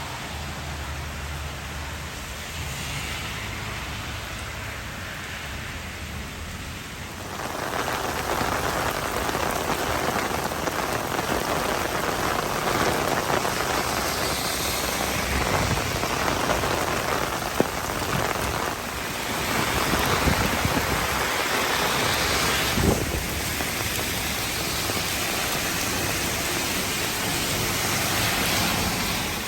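Heavy rain pouring down and splashing on surfaces in a steady hiss, growing louder about a quarter of the way in, with a couple of sharp single clicks.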